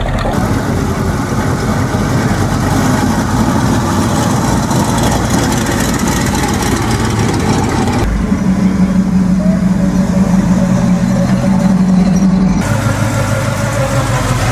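Car engines idling, with faint voices in the background. The sound changes abruptly three times as the footage cuts, and one stretch in the second half carries a strong steady low hum.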